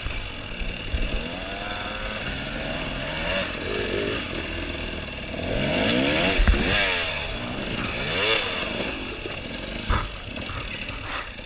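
Dirt bike engine revving up and down again and again as the bike is worked over slippery roots and rocks, with a couple of short knocks about six and ten seconds in.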